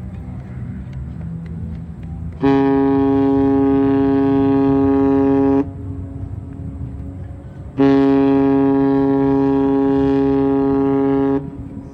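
Cruise ship Pacific Venus's whistle sounding two long, steady blasts of about three seconds each, a few seconds apart, as part of a three-blast departure signal. A low rumble runs underneath.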